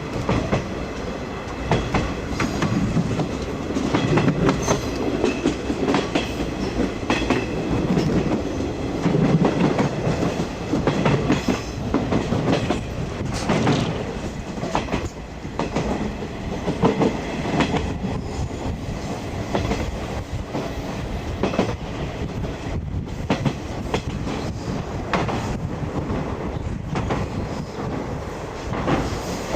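Series 50 passenger coach running along the line, heard from inside: a steady rumble with the wheels clicking over rail joints every second or so.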